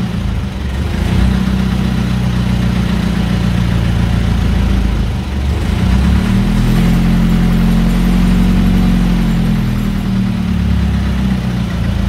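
1941 Mercedes Wehrmacht truck's glow-plug diesel engine running, its speed raised on the hand throttle cable about halfway through, held briefly, then brought back down near the end.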